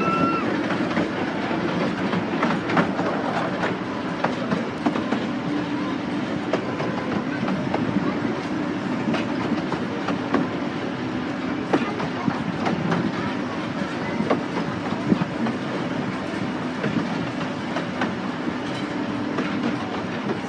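Miniature railway train running along the track, heard from inside a carriage: a steady rumble of the wheels and running gear, with scattered clicks from the rail joints.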